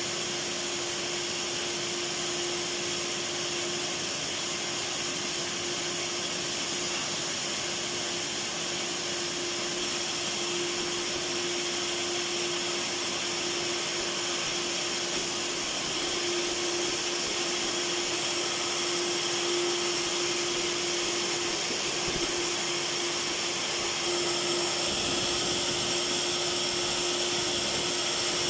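Electric vacuum cleaner running steadily: an even rushing hiss with one steady hum on top, growing slightly louder in the second half.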